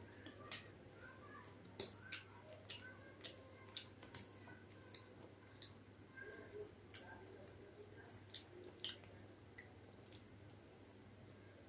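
Close-up eating sounds: soft, wet chewing of khichdi and chicken curry with irregular sharp mouth clicks and smacks, loudest about two seconds in.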